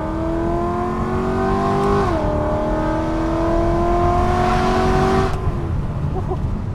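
BMW E93 M3's 4.0-litre V8, tuned and fitted with an X-pipe exhaust with resonators, pulling hard under full throttle, heard from the open-top cabin. The exhaust note climbs in pitch, drops at a quick DCT upshift about two seconds in, climbs again, and cuts off when the throttle is lifted a little over five seconds in. Wind and road rumble run underneath.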